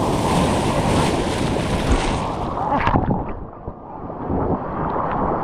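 Sea surf and wind rumbling across the microphone. The hiss thins out a little past the two-second mark, and there are a few short knocks about three seconds in.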